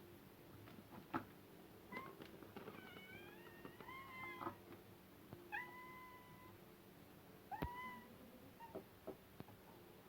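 Several domestic cats meowing, about half a dozen short calls, two of them overlapping, with a few sharp clicks among them.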